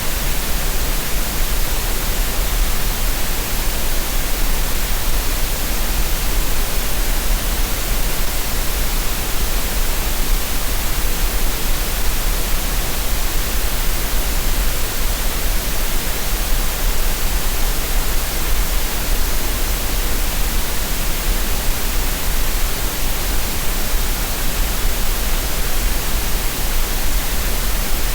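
Green noise: a steady, unchanging hiss spread evenly across the range, with extra weight at the very bottom, used as a relaxation and tinnitus-masking sound.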